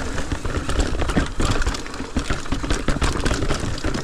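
Mountain bike rolling over a rough dirt trail: a steady tyre rumble with many small knocks and rattles from the bike.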